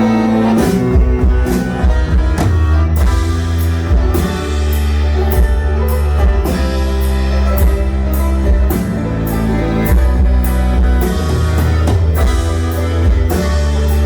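A live bluegrass band plays a rock cover, with plucked acoustic strings over a steady drum beat. The beat comes in about half a second in.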